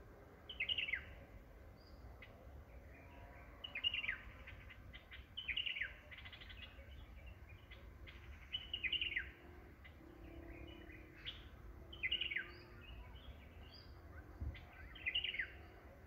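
A bird calling repeatedly in short bursts of quick, high, falling chirps, about six bursts a couple of seconds apart, over a faint low rumble.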